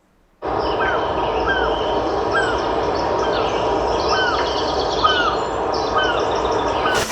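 Outdoor nature ambience: a bird repeats a short chirp about once a second over a steady rushing background. It starts after a brief moment of silence and changes abruptly near the end.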